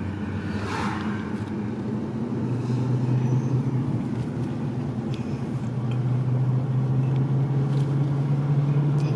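Car driving on the road, heard from inside the cabin: a steady low engine and tyre hum whose pitch shifts about two and a half seconds in and again around six seconds, growing slightly louder.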